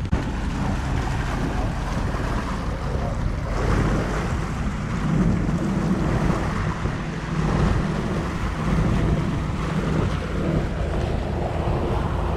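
Motorboat under way on open sea: a steady engine hum under water noise, with wind buffeting the microphone.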